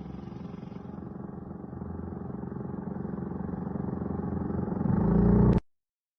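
An engine running steadily, growing louder over the last second or so, then cutting off suddenly.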